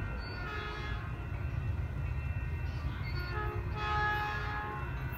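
Caltrain commuter train going by with a steady low rumble, sounding its horn twice: briefly near the start and again, louder, about four seconds in.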